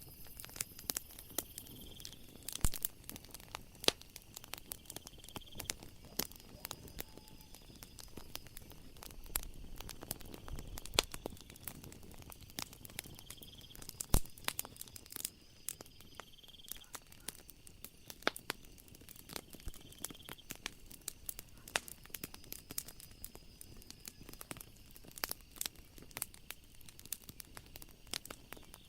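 Wood fire crackling with irregular sharp pops. A faint high chirp recurs every few seconds behind it, part of a night ambience.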